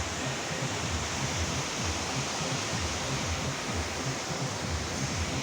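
Waterfall pouring steadily, heard from right behind the falling water.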